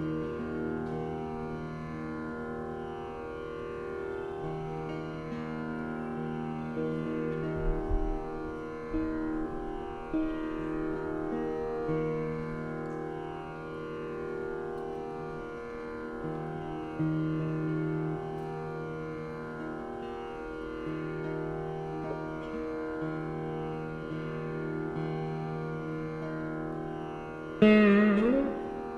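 Carnatic veena playing a slow melodic passage in raga Khamas, plucked notes bent and sustained over the drone strings, with a louder, sharply plucked gliding phrase near the end.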